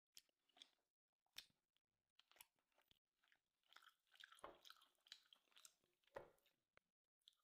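Faint chewing of a bite of steak, the mouth making irregular soft clicks and smacks.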